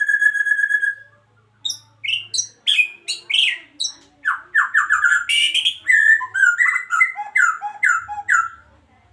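Male white-rumped shama (Medan murai batu) singing in full voice: a held whistle note ends about a second in, then after a short pause comes a fast run of varied whistled notes, sweeping up and down, that stops near the end.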